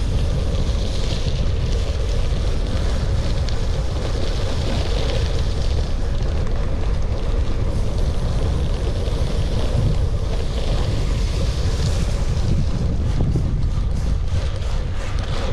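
Wind buffeting the microphone of a camera on a moving gravel bike, over a steady low rumble of tyres on the track. Near the end comes a run of quick rattling clicks.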